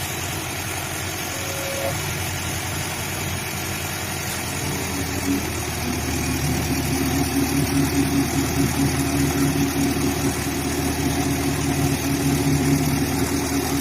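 A vehicle engine running steadily, growing louder about halfway through as it comes closer or takes on more throttle.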